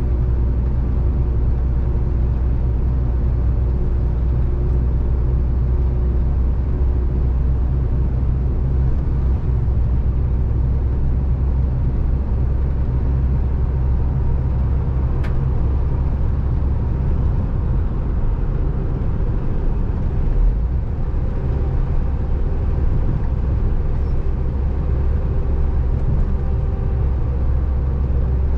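Scania 450 truck's diesel engine and road noise heard from inside the cab while driving: a steady, heavy low drone. There is one brief click about halfway through.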